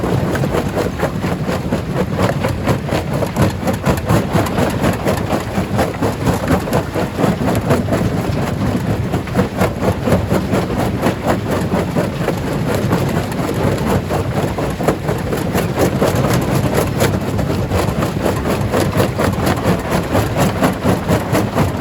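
Stone crusher running: a steady, loud mechanical din with many irregular small knocks of rock being broken.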